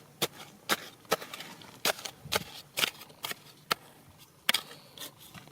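Repeated sharp knocks, about two a second, of a hand tool striking rock while digging.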